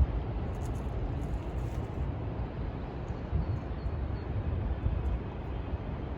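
Outdoor urban ambience heard while walking: a steady, unevenly fluttering low rumble, much of it wind buffeting the microphone.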